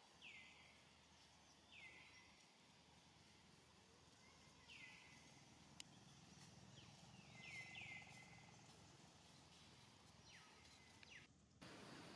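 Faint outdoor ambience with a bird repeating a short chirp that slides down in pitch, about six times at irregular gaps. There is a single sharp click about six seconds in, and the background hiss grows louder near the end.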